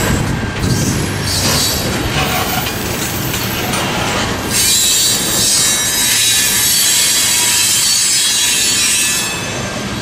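Tank cars of a Norfolk Southern crude oil train rolling past at speed: a steady rumble and rush of steel wheels on rail. About halfway through, the wheel noise gets louder and higher-pitched, then eases off near the end.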